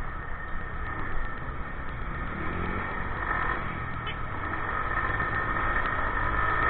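Motorcycle on the move: steady engine and wind noise, slowly growing louder toward the end.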